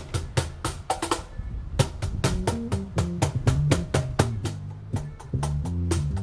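Instrumental band music: a drum kit playing a steady beat, joined about two seconds in by a bass line.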